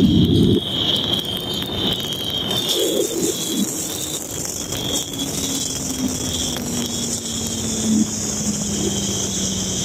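Turbocharged Suzuki Hayabusa inline-four at full throttle cuts off about half a second in, ending the pass. The bike then coasts down with wind noise, a faint engine hum slowly falling in pitch, and a steady high whine throughout.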